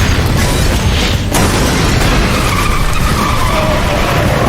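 Car chase sound: cars driven hard with tyres skidding, a sharp hit a little over a second in, and a long tyre squeal in the second half that falls in pitch near the end.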